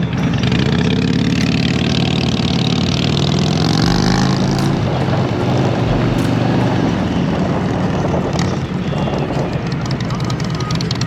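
Harley-Davidson Road Glide's V-twin engine under way. It rises in pitch as it accelerates over the first few seconds, then runs steadily.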